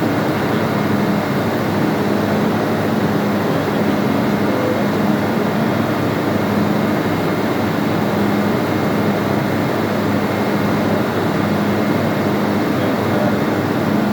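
Steady, loud machinery drone of a ship's engine room, with a constant low hum that swells and fades slightly every second or two.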